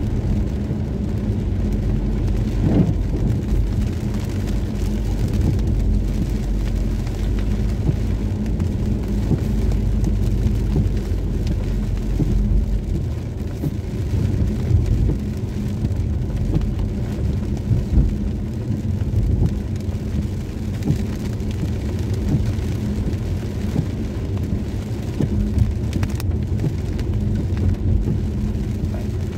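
Rain on a moving car, heard from inside the cabin: steady patter on the windshield and roof over the low rumble of the car and its tyres on the wet road.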